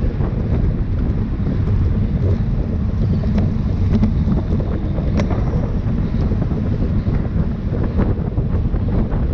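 Wind buffeting a camera microphone on a bicycle moving at racing speed, a steady low rumble. A few faint clicks and ticks come through it.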